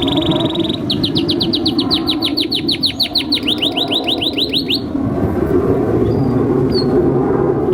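Domestic canary singing: a fast trill, then a run of about six quick down-slurred notes a second, which stops about five seconds in. A steady low background noise runs underneath.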